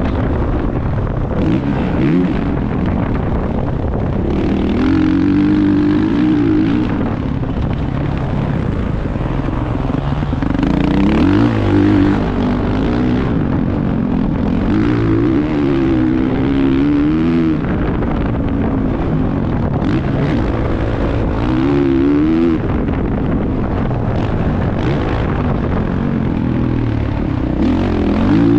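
Motocross bike engine revving up and down under riding, its pitch climbing and dropping again every two to three seconds, over a steady low rumble.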